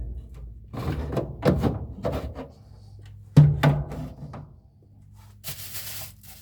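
A series of knocks and clunks, about half a dozen, the loudest about three and a half seconds in, over a steady low hum. A rubbing hiss starts near the end.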